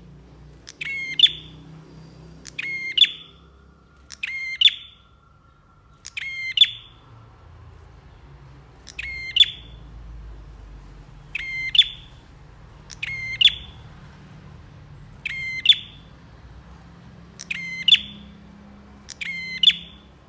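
A prenjak (prinia) giving loud, sharp chirping calls, about ten in all, each a quick high burst of notes repeated every couple of seconds.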